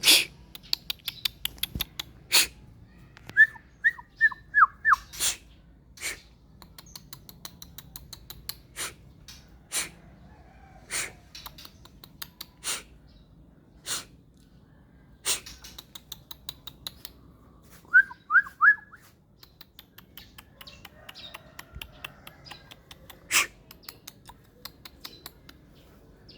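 White-rumped shama calling: sharp single clicks and quick runs of ticking, with two short runs of falling whistled notes, about 3.5 seconds and 18 seconds in.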